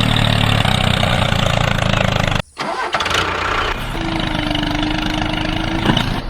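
Tractor engine running steadily, cutting off suddenly about two and a half seconds in; a quieter engine hum with a steady tone follows.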